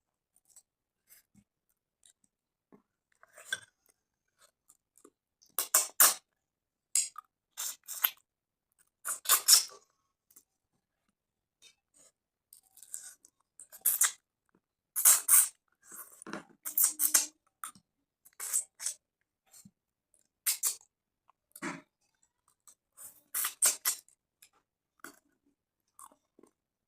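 Close-up eating sounds of a person eating rice with fish curry: wet chewing and mouth smacks in irregular clusters of sharp bursts, with quiet gaps between.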